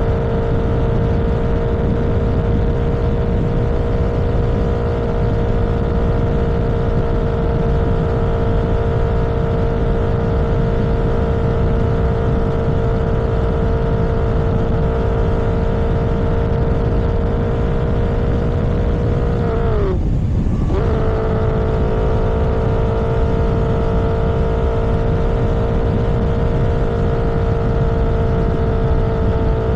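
Vehicle engine running at steady cruising speed over rushing road and wind noise. About twenty seconds in, the engine pitch drops briefly, then comes straight back up and holds steady again.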